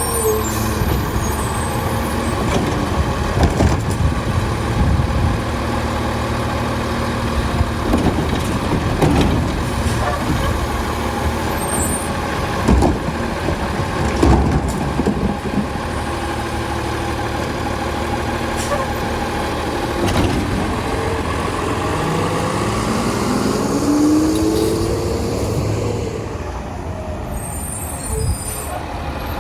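Labrie side-load garbage truck on an Autocar chassis running, with several sharp knocks and clanks partway through and a rising whine a little before the end.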